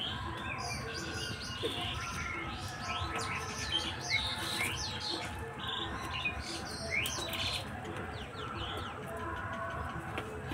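Small birds chirping: many short chirps that overlap, a few louder than the rest.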